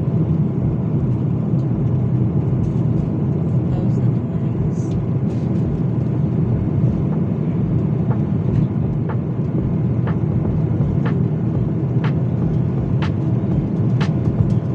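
Steady low rumble inside an airliner cabin as the plane moves on the ground, with light knocks about once a second from about halfway through.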